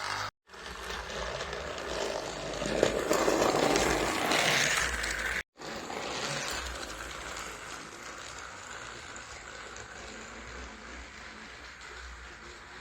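Battery-powered Thomas & Friends Ashima toy engine whirring and rattling along its track, louder in the first half. The sound drops out abruptly twice.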